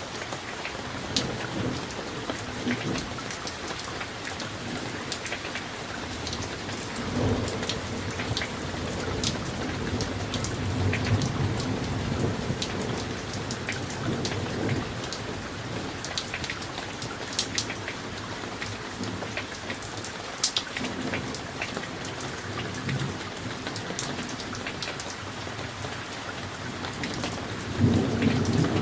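Summer thunderstorm: steady rain falling, with individual drops ticking sharply. Thunder rumbles low and long about a quarter of the way in, and again, louder, near the end.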